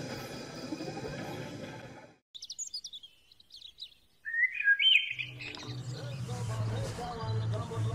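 Birds chirping in short, quick high calls, after a dense sound cuts off abruptly about two seconds in. From about four seconds in, a low steady hum and further sounds come in under the chirps.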